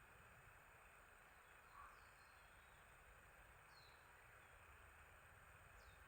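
Very faint songbird calls, a few short chirps that drop in pitch, spaced a second or two apart, over a steady soft hiss of outdoor ambience.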